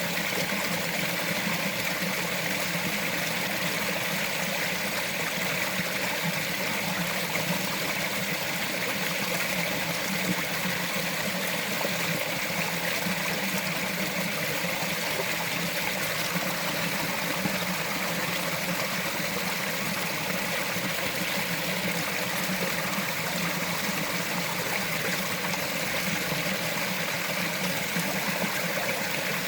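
A small mountain stream running over rocks, a steady, even rush of water with no pauses or changes.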